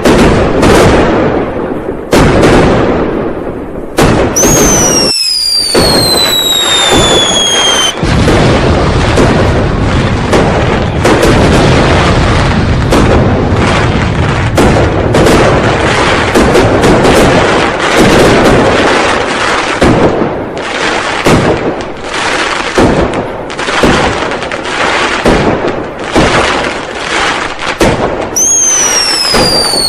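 New Year firecrackers and fireworks going off without a break, a dense crackle of bangs. A whistling firework's whistle falls in pitch from about four to eight seconds in, and another starts near the end.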